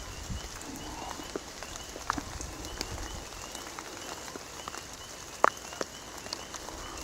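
Rain falling, with scattered sharp taps of drops landing close by, the loudest about five and a half seconds in. A faint, evenly repeating high chirp runs underneath.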